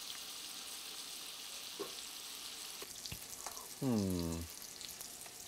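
Onions frying in bacon fat in a cast iron Dutch oven, a steady sizzle. A couple of faint clicks, and a short low falling groan about four seconds in.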